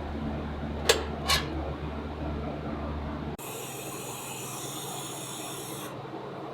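A steady low mechanical hum with two light clicks about a second in, then an abrupt change to a steady high-pitched hiss for a few seconds.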